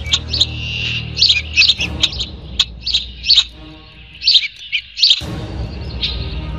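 Bird chirping in quick, short, high notes, a few per second, over a low steady musical drone. The drone cuts out for about a second and a half midway.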